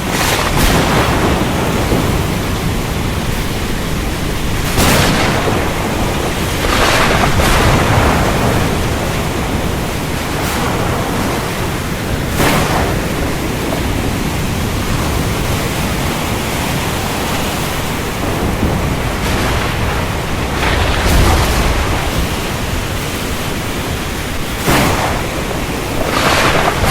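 Thunderstorm: steady heavy rain with a low rumble of thunder, broken by sharp cracks of thunder every few seconds.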